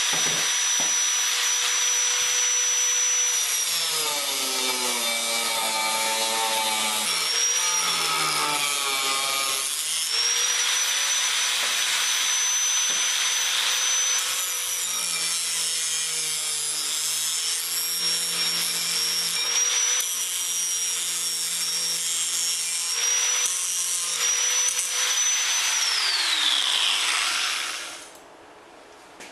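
Small angle grinder with a cutting wheel, running with a high whine and cutting threads off metal pipe, its pitch sagging each time the wheel bites in. Near the end it is switched off and its whine falls away as the wheel spins down.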